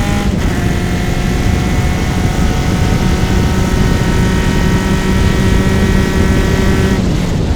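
Open-wheel race car engine at full throttle, heard onboard: a brief break for a gearshift about a third of a second in, then a steady engine note held for several seconds. Near the end the note falls away as the throttle is lifted.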